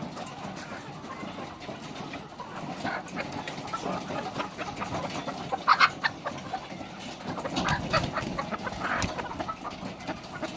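A house full of laying hens clucking steadily, with one louder, sharper call about five and a half seconds in.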